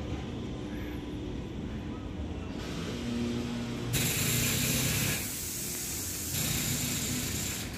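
Suburban EMU train in a rail yard: a low mechanical rumble, broken by two loud bursts of compressed-air hissing, about four seconds in and again near the end.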